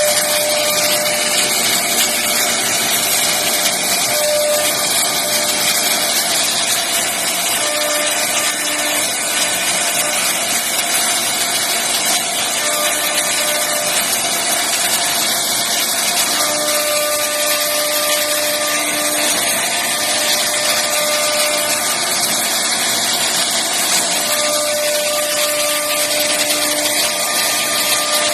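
CNC router spindle and bit carving a 3D bed design into wood, running steadily with a faint whine that comes and goes several times.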